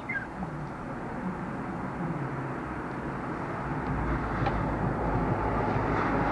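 Street traffic outdoors: a vehicle's rumble grows steadily louder as it approaches, over a background hum of the road. A short bird chirp sounds right at the start.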